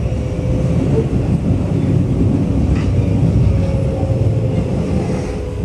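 Keio 8000 series electric train with Hitachi GTO inverter control, running between stations and heard from inside the passenger car: a steady, loud rumble of wheels on rail. Over it sits a faint motor whine that slides slightly lower in pitch near the end.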